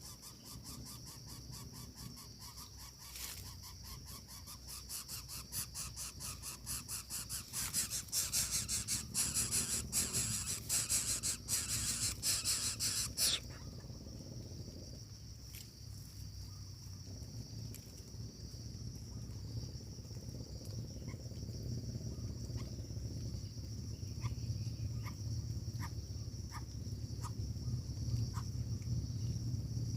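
Insects buzzing steadily and high-pitched, with a fast pulsing buzz that swells over the first dozen seconds and then cuts off suddenly, followed by a few faint short chirps.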